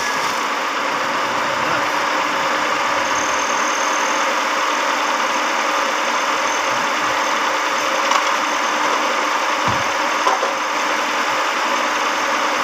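Carbureted car engine idling steadily, on a test run right after its carburetor overhaul.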